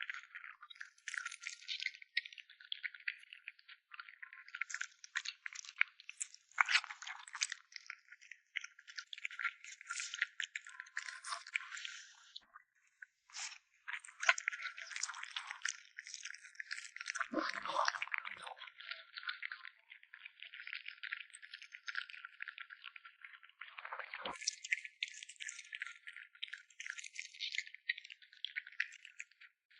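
A kitten chewing and crunching food close to the microphone: a dense run of small crisp clicks and crackles, with a short pause about halfway.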